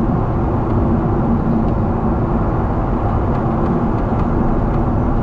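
Steady cabin noise of a Boeing 777 in flight: the engines and rushing airflow make a constant low rumble with a faint steady hum.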